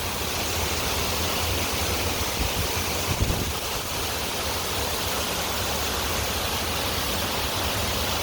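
Waterfall water rushing in a steady, even roar, with a brief low rumble about three seconds in.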